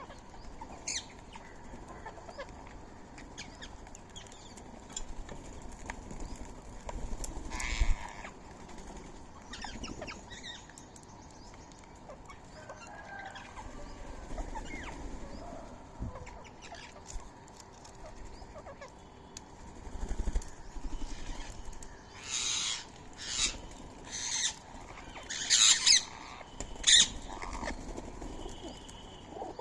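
Birds at a feeding spot, calling and moving about. Scattered faint sounds give way to several loud, short, high bird sounds in the last third.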